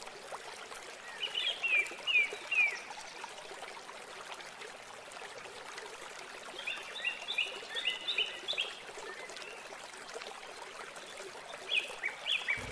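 Small birds chirping in three short bursts of quick, high chirps, over a steady hiss.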